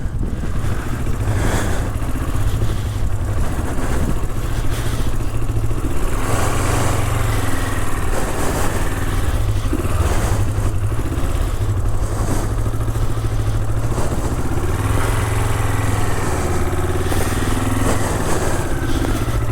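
Motorcycle engines running: a steady low engine drone, with engine notes rising and falling in pitch around the middle and again near the end as the bikes rev.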